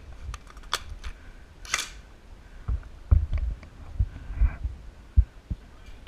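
Scattered sharp clicks, two of them within the first two seconds, then a run of soft low thumps and knocks during airsoft play.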